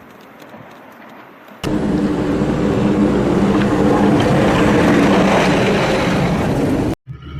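A loud, steady vehicle engine drone mixed with rushing noise, cutting in suddenly about a second and a half in and stopping abruptly near the end, after a quieter stretch of hiss with faint clicks.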